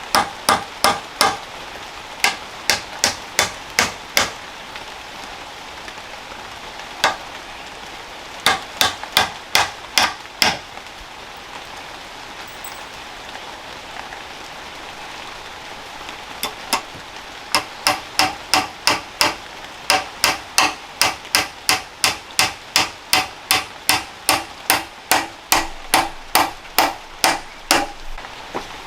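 Repeated sharp blows of a tool striking wood, in runs of quick, even strokes about two a second, with a pause in the middle and the longest run filling the last twelve seconds.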